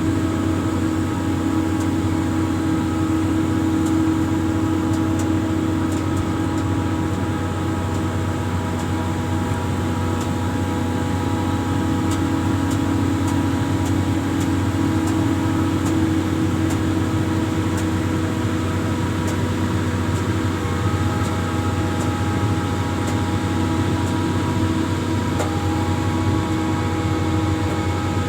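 Amphibious excavator's diesel engine running steadily: a constant low drone with several steady whining tones over it, some of which shift slightly about twenty seconds in.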